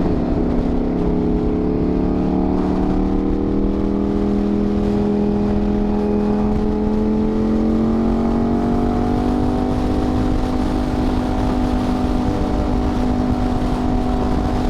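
Ducati V4 motorcycle engine running steadily under way, its pitch rising slowly for a few seconds before holding even, over a low rumble of wind noise.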